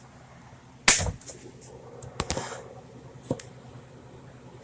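Kitchen clatter of pots and utensils being handled: one sharp knock about a second in, then a few lighter clicks and a short scrape, and another small knock near the end.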